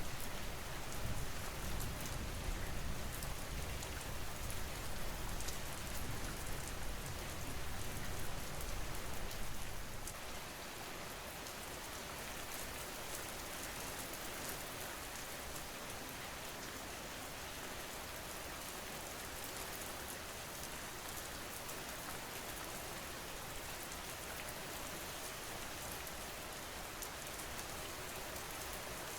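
Steady rain falling, a continuous even hiss of drops. A low rumble sits under it for about the first ten seconds, then fades out, leaving the rain alone.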